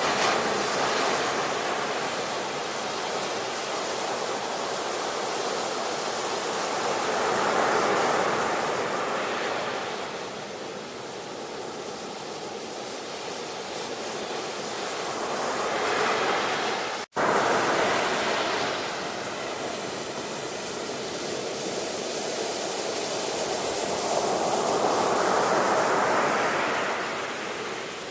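Ocean surf: waves swelling and washing in, one rushing peak about every eight seconds over a steady wash of water noise. There is a brief drop to near silence about two thirds of the way through, which looks like a splice in the recording.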